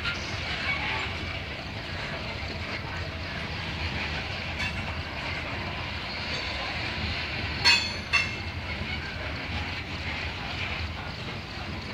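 Loaded Norfolk Southern coal cars rolling slowly past: a steady rumble of wheels and couplers on the rails. About two-thirds of the way through, two short, loud, high metallic creaks ring out half a second apart, with a fainter one a little before the middle.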